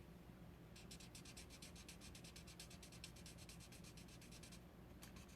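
Alcohol blending marker scribbling on cardstock while colouring in a stamped leaf: faint, rapid back-and-forth strokes, about ten a second, starting about a second in and stopping just before the end.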